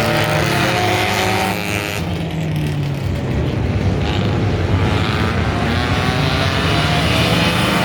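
Car engines running loudly and revving, their pitch shifting up and down. The sound changes abruptly about two seconds in.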